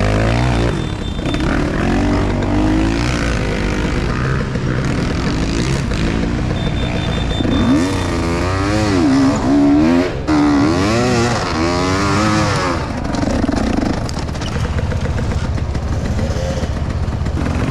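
Enduro motorcycle engine revving up and down again and again, its pitch rising and falling in repeated swells, with the gearbox unable to shift above first gear.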